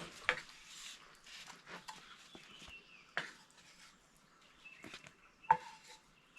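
Cutlery clinking against a frying pan or plate while eating: three sharp taps a few seconds apart, the last, about five seconds in, the loudest and briefly ringing, with soft rustling between them.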